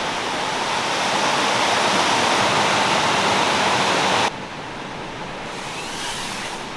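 Steady rushing of a valley stream, an even hiss with no distinct events; about four seconds in it drops suddenly to a quieter rush.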